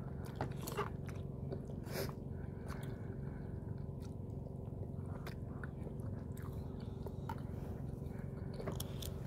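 A person chewing food close to the microphone, with scattered short clicks over a steady low hum.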